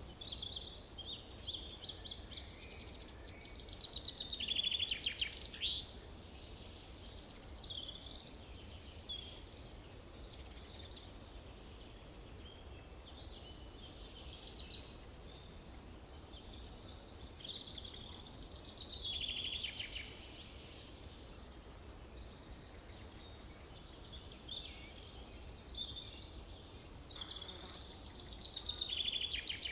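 Several songbirds singing in a forest, with overlapping trills and chirping phrases throughout, the loudest song phrases about four seconds in and near the end, over a faint low rumble.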